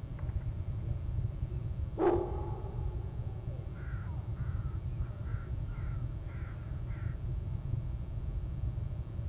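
A bird calling in a run of about seven short calls, roughly half a second apart, over a steady low rumble. A single sharp knock about two seconds in is the loudest sound.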